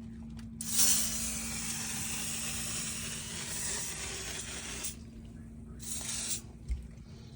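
Aerosol can of silicone spray lubricant hissing in one long burst of about four seconds, then a short burst about six seconds in.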